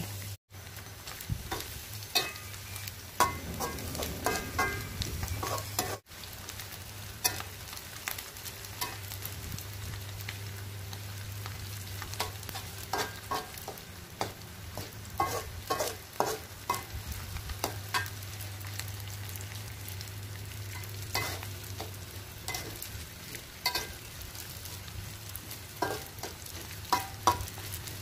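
Small dried anchovies frying in oil in a wok: a steady sizzle, with frequent scrapes and taps of a spatula stirring them against the pan. A low steady hum runs underneath.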